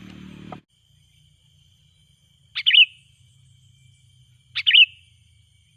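Sooty-headed bulbul (kutilang) giving two short, sharp calls about two seconds apart, over a faint steady high hum. A low hum stops suddenly about half a second in.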